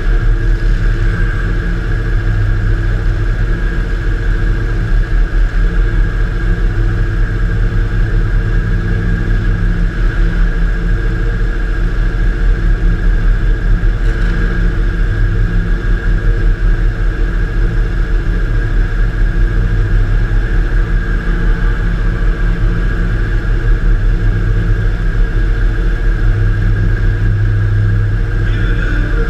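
Demolition derby car's engine running loud and fairly steady, heard from inside the car, with a constant high whine throughout.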